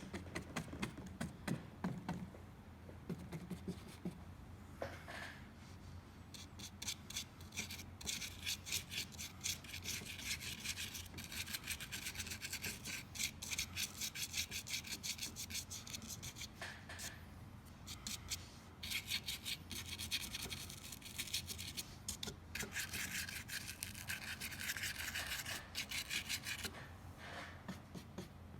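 Small paintbrush scrubbing and dabbing against hardened spray foam, a rapid dry scratching that comes in stretches with short pauses between.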